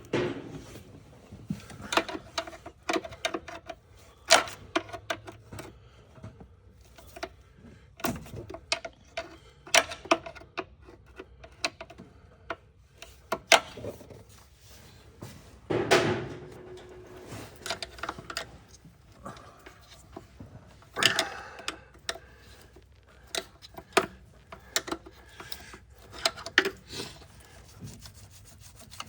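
Irregular clicks, knocks and rubbing as rubber hoses and plastic fittings are twisted loose and pulled off in a truck's engine bay, with hand tools set down among the parts.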